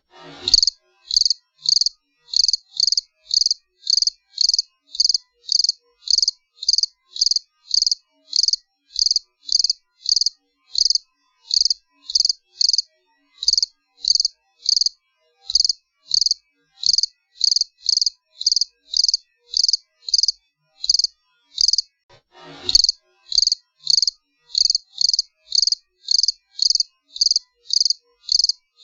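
A cricket chirping steadily, short high-pitched chirps about two a second with silence between them. A brief falling swish cuts in twice, once near the start and again about 22 seconds in.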